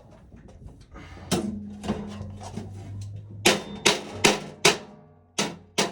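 Sharp metal knocks in a quick series, about seven loud strikes in the second half after two earlier ones, as the breaker-slot knockouts in a steel electrical panel cover are struck to break them out.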